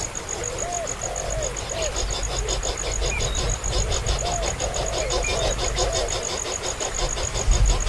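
A bird giving short rising-and-falling calls again and again, while an insect chirps high in a steady fast pulse of about eight beats a second, over a low rumble.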